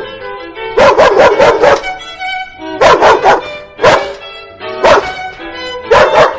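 A dog barking in quick bursts of several yaps at a time, four bursts in all, over steady background music.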